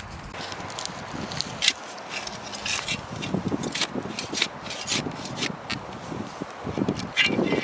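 Garden hand tool scraping and chopping into soil in irregular strokes, with sharper clicks and heavier thuds that build toward the end.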